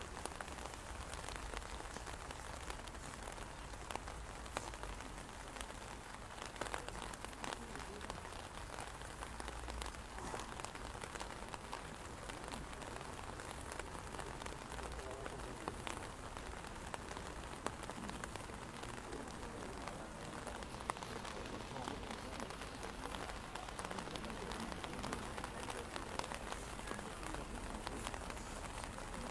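Steady rain falling on wet pavement, a soft even hiss with scattered drop ticks.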